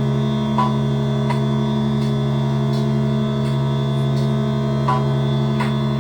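Modular synthesizer playing a steady drone of several held low tones, one of them pulsing, with a few short, higher blips scattered over it.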